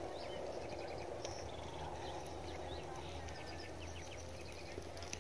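Small birds chirping in many short calls over a steady low outdoor background hum.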